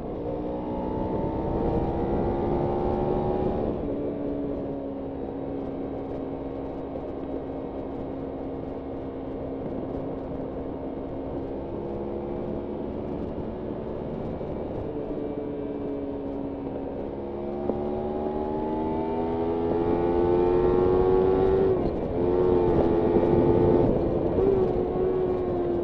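Kawasaki Ninja 300's parallel-twin engine running under a rider's throttle. The revs climb for the first few seconds, drop sharply, then hold steady for a long stretch before climbing again, with a brief dip in revs a few seconds from the end and falling away at the very end.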